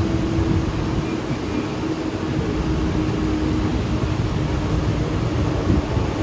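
Mumbai suburban local train running: a steady rumble and rush of noise with a constant hum underneath.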